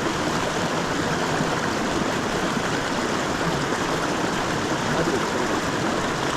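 Creek water rushing: a steady, even rush with no breaks.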